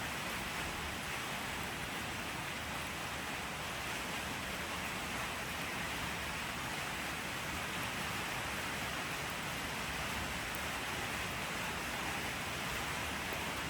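Steady, even rain falling, a constant hiss with no separate drops or breaks.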